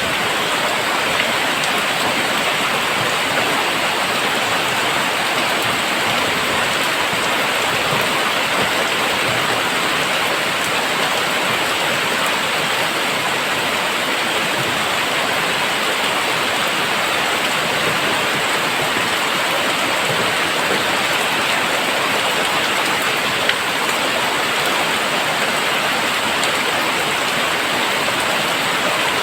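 Very heavy rain falling in a steady, dense downpour, the drops hitting surfaces in a continuous hiss.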